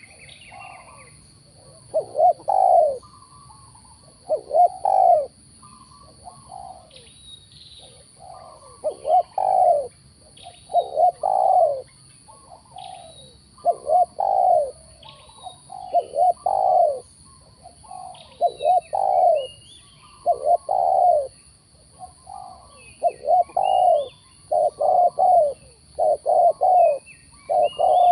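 Spotted doves cooing in repeated phrases, one about every second or two, with faint short chirps of small birds between them.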